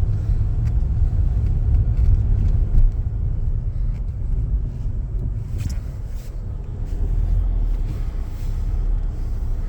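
Car driving along: a steady low rumble of engine and road noise, with a few faint ticks.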